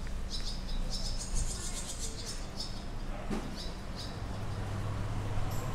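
Small birds chirping in quick, repeated short high notes over a low steady hum of street background, with a deeper hum joining about two-thirds of the way through.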